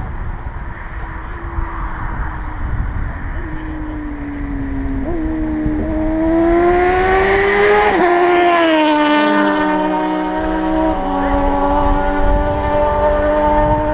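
Sport motorcycle driving by: its engine note steps up and climbs as it approaches and accelerates, drops sharply in pitch as it passes about eight seconds in, then runs on at a steadier, lower note as it pulls away, with another change in engine note near the end.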